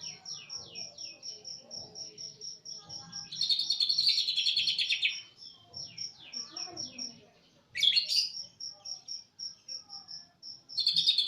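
Greater green leafbird (cucak ijo) of the East Java type singing: a steady run of short, evenly repeated high notes broken by two loud, dense rapid-fire bursts, the 'tembakan' prized by songbird keepers, and one sharp call about eight seconds in.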